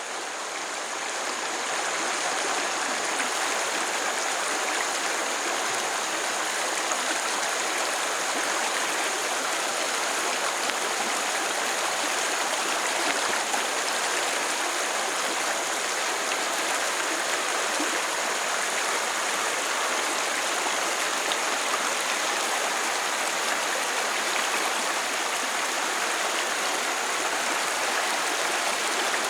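Stream water running: a steady, even rush that fades in over the first couple of seconds.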